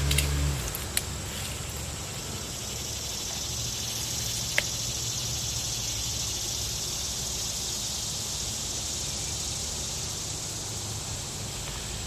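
A machine motor's steady hum cuts off about half a second in. A steady high-pitched hiss is left, with a few light clicks, once near the start and once about four and a half seconds in.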